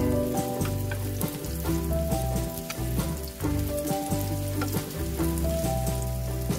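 Spinach and crab stick pancake batter sizzling in hot oil in a frying pan as spoonfuls are dropped in, with many small pops. Background music with a melody and bass plays over it.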